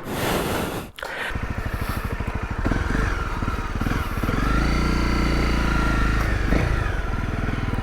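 Honda CRF250L's single-cylinder engine running with even firing pulses that start about a second in; its revs rise and fall again around the middle.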